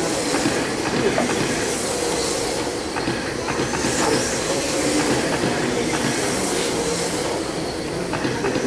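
A field of radio-controlled TOUR trucks with 17.5-turn brushless electric motors racing laps. Their motors and tyres make a steady, busy mechanical noise with scattered small clicks.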